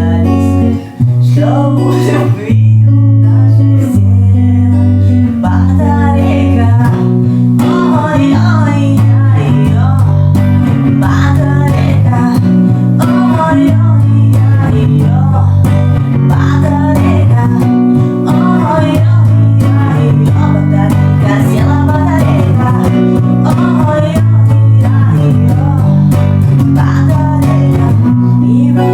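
Music: a cover song played on strummed guitar, with low bass notes changing every second or so.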